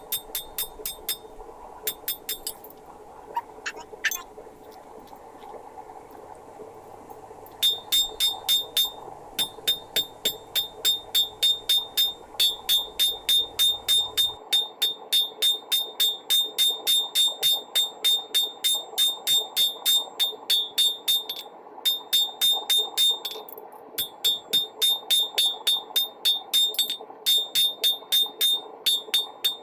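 Blacksmith's hammer striking hot rebar steel on an anvil during a hot cut: ringing metal blows, a few scattered ones at first, then long runs of about three strikes a second with short pauses, over a steady background rush.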